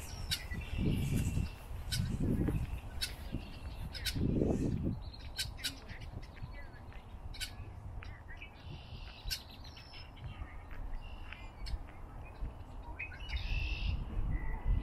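Birds chirping and calling, short high chirps scattered throughout, with three low rumbles of wind buffeting the microphone in the first five seconds.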